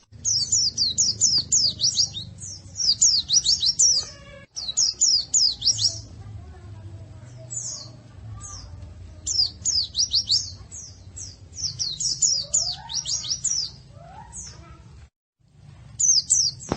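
White-eye (pleci) song: bursts of rapid, high, thin chirps, each sweeping downward, in phrases separated by short pauses, over a low steady hum. The sound drops out briefly near the end.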